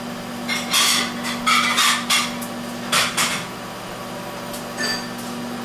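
Microwave oven running with a steady hum while the metal layer of a CD inside arcs, giving bursts of crackling sparks: several in the first two seconds, another around three seconds in, and a short one near five seconds.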